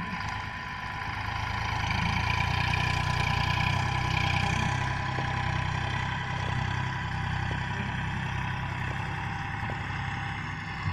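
Eicher 548 tractor's three-cylinder diesel engine running steadily at idle. It picks up slightly about two seconds in, then holds even.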